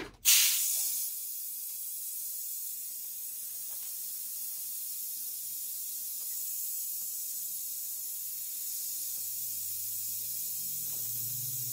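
Compressed air hissing steadily through an air-powered venturi vacuum pump (a brake-bleeder type), cut in with a sudden burst just after the start, as it pulls a vacuum on a car's air-conditioning system. A faint low hum comes in near the end.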